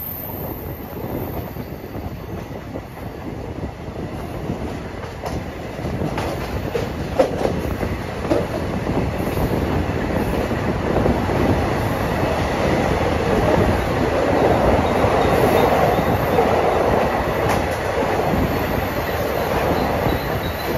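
Express train running along the track, heard from on board: a continuous rumble with the clatter of wheels over rail joints. It grows louder from about ten seconds in.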